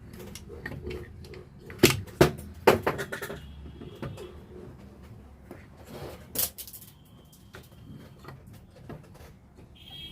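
Sharp metallic clicks and knocks of hand tools as a Bosch 12 V car alternator is being taken apart, three loud knocks close together about two seconds in and another about six seconds in, over a steady low hum.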